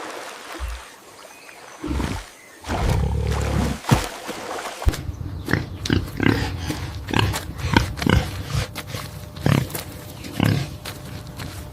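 Animal calls: a few heavy low grunting calls in the first five seconds, then a busier run of short, sharp calls and clicks.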